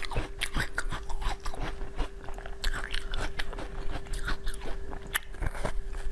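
Close-miked biting and chewing of frozen watermelon: a quick, irregular run of crisp crunches and wet clicks. A faint steady hum sits underneath.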